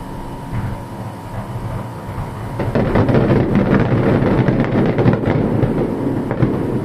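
Aerial fireworks bursting: a deep rumble that swells suddenly about two and a half seconds in, filled with rapid crackling from the crackling stars, fading near the end.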